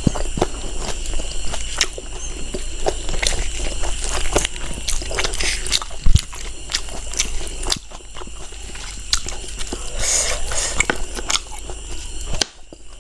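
Close-miked chewing and wet mouth sounds of someone eating pork rib curry and rice, with many small smacks and clicks over a faint steady high whine. A single sharp knock stands out about six seconds in.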